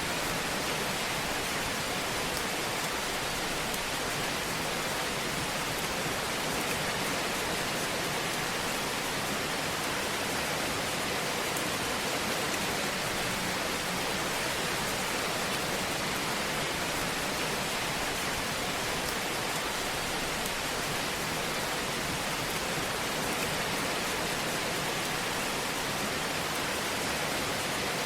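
Fire burning in a fireplace: a steady, even hiss of crackle with no single loud pops.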